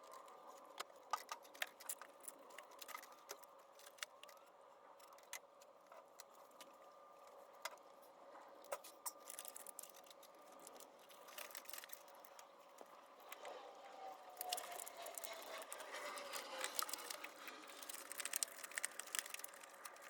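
Faint, scattered clinks and light metal rattles of hand tools and engine parts being handled while the valve cover comes off a 4.7 L V8, over a faint steady hum.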